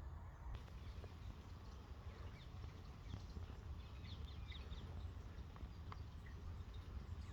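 Birds chirping in woodland, a scatter of short high calls that are busiest in the middle, over a steady low rumble.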